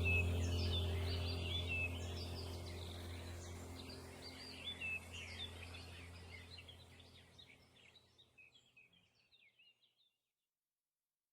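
Small songbirds chirping and twittering rapidly over a low steady hum. Both fade away to silence about seven or eight seconds in.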